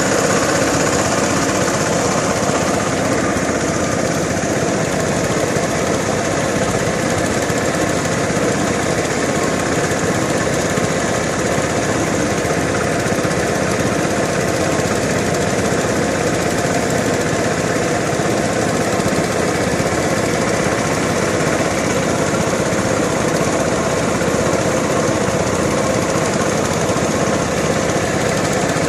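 A motor engine running steadily at a constant speed, loud and unbroken, with no revving.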